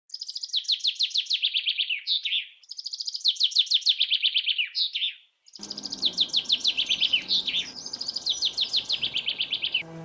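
A songbird singing three phrases. Each phrase is a fast run of repeated notes that falls in pitch and ends in a short flourish.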